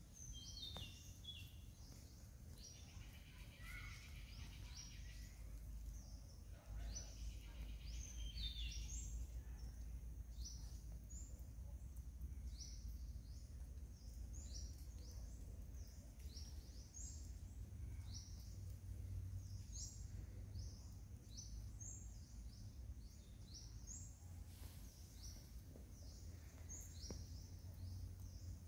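Birds calling: a long series of short, high chirps, each falling in pitch and repeating about once a second, with some busier trills in the first few seconds. A low steady rumble lies underneath.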